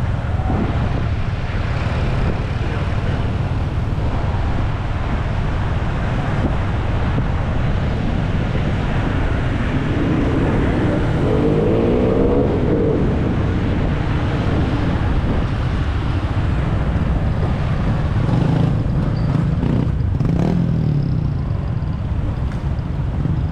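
Traffic noise heard from the back of a moving motorbike: a steady rush of engines and road noise. From about ten to thirteen seconds in, a passing engine's note glides in pitch.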